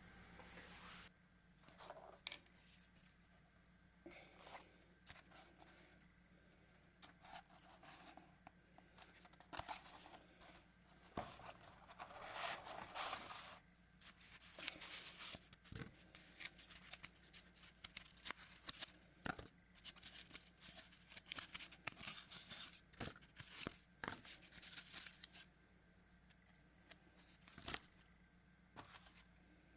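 Cardboard being handled and pulled apart: faint, irregular rustling, tearing and scraping with scattered sharp clicks, busiest in the middle stretch.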